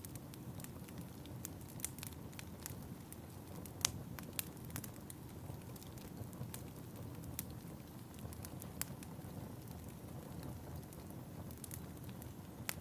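Fireplace fire crackling: a steady low rush of flames with scattered sharp pops, the loudest about four seconds in.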